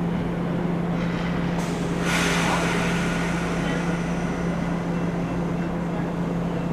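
Stopped NJ Transit electric multilevel train with a steady low hum. About two seconds in, a burst of hissing air fades away over a couple of seconds.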